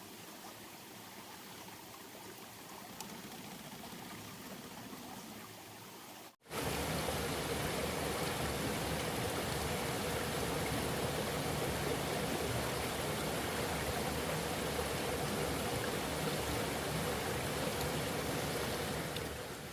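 Steady rush of flowing water. It is fainter at first, then after a sudden cut about six seconds in it is much louder, with a faint steady hum under it.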